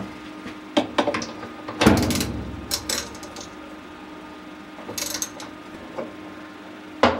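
Ratchet wrench clicking and metal clanks as the bolt holding the washing machine's agitator is undone, in scattered bursts with a louder grinding scrape about two seconds in.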